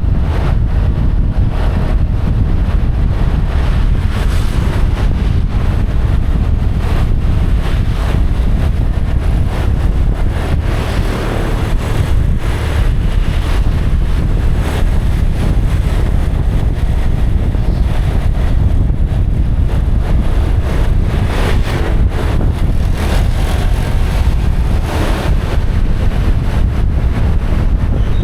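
Heavy wind rushing over the microphone on a moving motorcycle, with the motorbike and road traffic running underneath.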